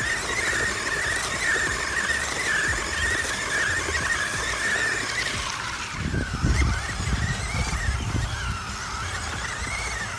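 Electric RC monster truck's motor whining, its pitch wavering up and down with the throttle. About six seconds in there is a rush of splashing water and mud as the truck drives through the puddle.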